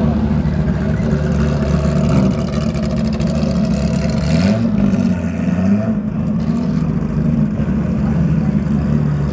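Car engine running steadily, its pitch rising and falling briefly about halfway through.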